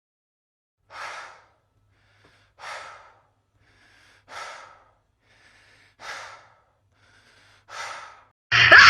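A person breathing heavily: five breaths out about every second and a half to two seconds, each with a faint breath in between. A sudden loud sound cuts in just before the end.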